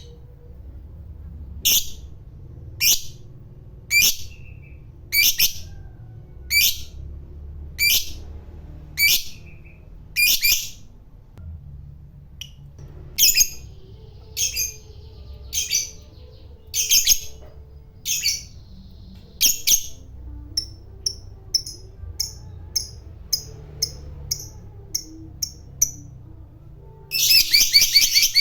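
Lovebird giving single shrill, sharp calls about once a second, then quicker, shorter chirps. Near the end it breaks into a long, rapid chattering trill, the 'ngekek' of a lovebird in full song.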